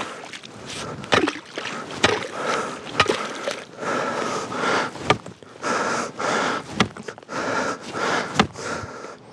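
Long-handled ice chisel chopping a hole in frozen ice: repeated sharp strikes about once a second, each with a short crunch of breaking ice.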